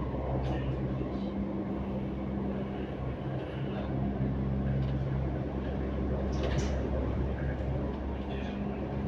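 Interior of an MTR Tuen Ma Line C-train running: a steady rumble with a constant low hum from the train's equipment, with faint passenger voices.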